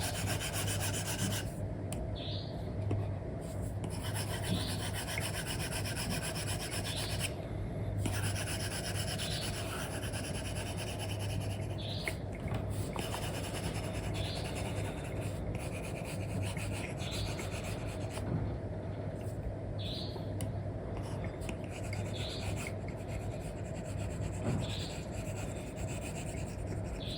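Apple Pencil with an Elecom nib rubbing and scratching across a paper-like screen protector on an iPad, in long colouring strokes with short breaks between them. A steady low hum runs underneath.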